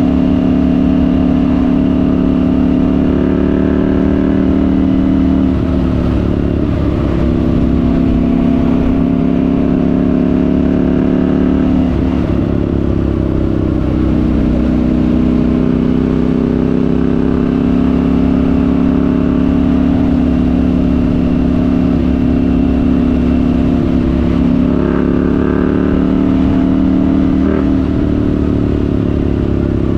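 KTM 790 Duke's parallel-twin engine running under way through a Remus rear silencer with the catalytic converter deleted. It holds a steady note, with three brief dips where the note drops and then settles at a new pitch.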